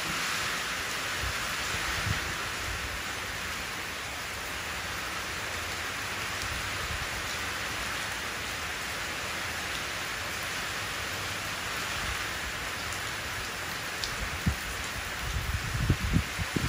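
Steady rain falling into a shallow puddle, a dense patter of drops on the water's surface. Near the end a few short low bumps rise over it.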